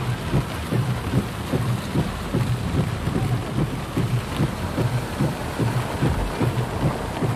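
Heavy rain falling steadily, with frequent irregular dull thuds of drops striking close by.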